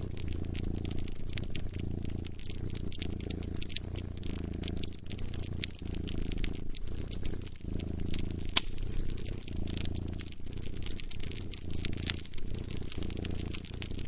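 A cat purring in a steady rhythm of about one pulse a second, under the sharp snaps and pops of a crackling fire, with one louder pop a little past the middle.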